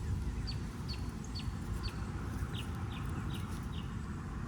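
A bird repeating a short, high, falling chirp about twice a second, over a low steady rustle.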